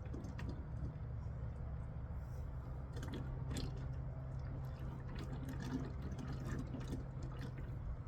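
Used engine oil pouring and splashing in a stream, with small clicks and knocks from about three seconds in, over a steady low rumble.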